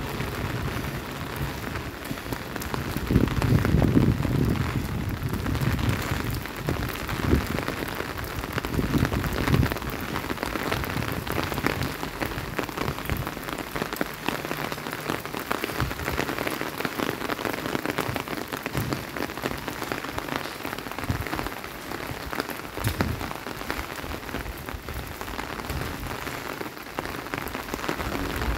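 Steady rain falling on a wet stone-paved street, a dense hiss of drops and spatter. A few louder low bumps come about four and nine seconds in.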